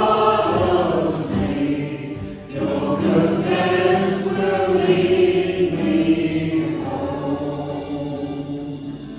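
Congregation singing a hymn together in a group, the sung notes held long and fading away as the song ends near the close.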